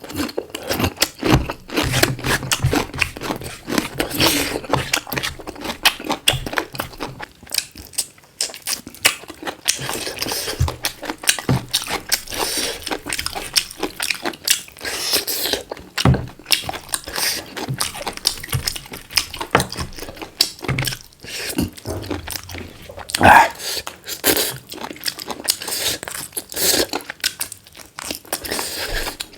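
Close-up eating sounds: chewing and crunching on black chicken, with many irregular wet clicks and smacks.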